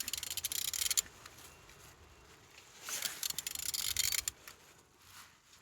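Mercedes OM651 four-cylinder diesel engine being turned over by hand with a wrench on the crankshaft: two bursts of rapid clicking, about a second each, one at the start and one about three seconds in. The engine turns freely.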